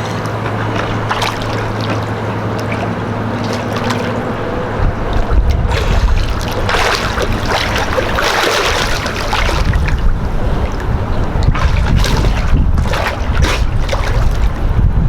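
Water sloshing and splashing around a boat hull, with wind buffeting the microphone in a heavy low rumble from about five seconds in; a steady low hum sits under the first few seconds.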